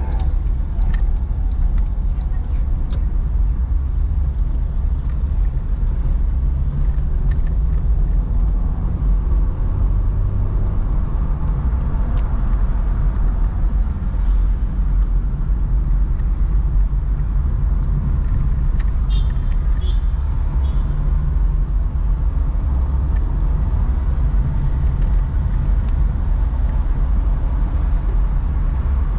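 Steady low rumble of a car driving through city traffic: engine and road noise with passing vehicles. A few brief high-pitched tones sound about two-thirds of the way in.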